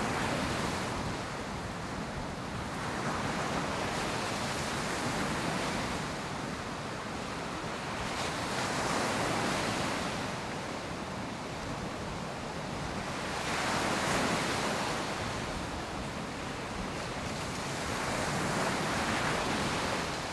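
Ocean surf breaking on a beach: a steady wash of waves that swells and ebbs every few seconds as each wave breaks and runs up the sand, with some wind on the microphone.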